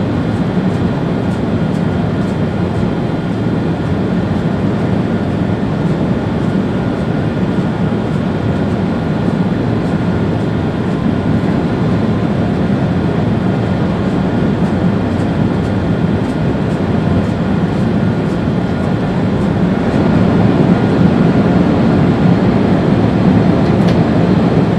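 Steady running noise inside the driver's cab of an ÖBB Railjet train at speed: a low rumble from the wheels and rails with a faint steady whine above it, growing a little louder near the end.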